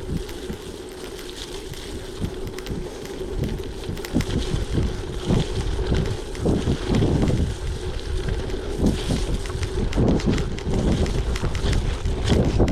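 Wind buffeting the microphone of a moving bicycle, with tyres rolling and crackling over a rough surface and a faint steady hum. It gets louder about four seconds in.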